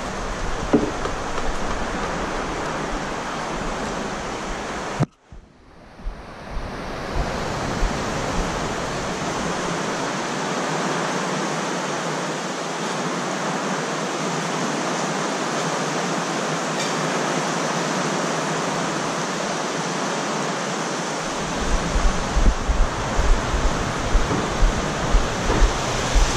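Heavy typhoon rain pouring down in a steady, dense rush, broken off for a moment about five seconds in. Near the end, irregular low thumps sound over it.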